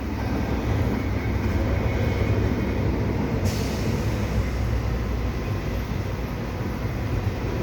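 Long double-stack intermodal freight train rolling past, a steady rumble of its well cars' wheels on the rails. A brief hiss cuts in about halfway through.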